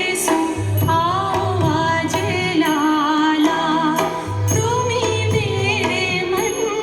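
A ghazal sung by a solo voice with an ornamented, wavering melody over a steady drone and regular low drum strokes.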